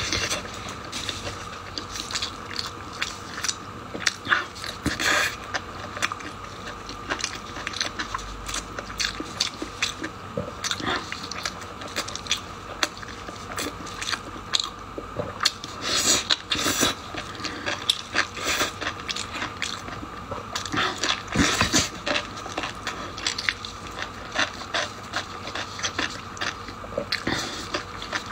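Close-up eating sounds of a person biting and chewing pork-skin rolls with a meat filling: a constant run of short mouth clicks and smacks, louder a few times.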